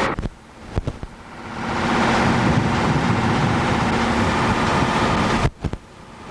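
Steady rumbling noise of a motor vehicle running. It breaks off abruptly right at the start and again about five and a half seconds in, with a few sharp clicks each time, then swells back up over a second or so.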